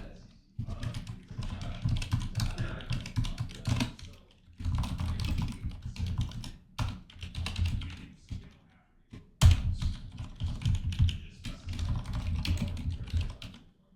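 Rapid typing on a computer keyboard, in several fast runs of keystrokes with short pauses between them, stopping shortly before the end.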